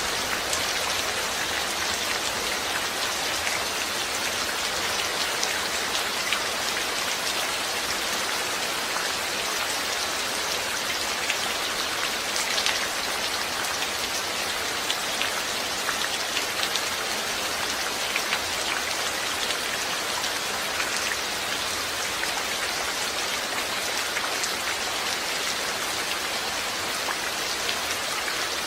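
Steady rain falling, a continuous hiss dense with small drop ticks on a surface.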